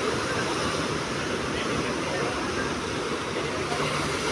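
Steady rushing noise of sea surf breaking along the shore, with no single waves standing out.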